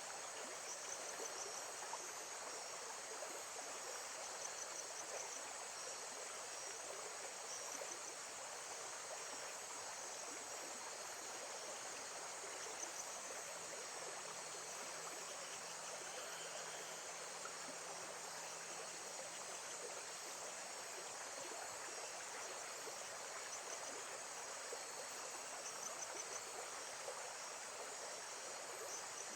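Steady flowing water, with a chorus of crickets or similar insects trilling in short, high, repeated pulses above it.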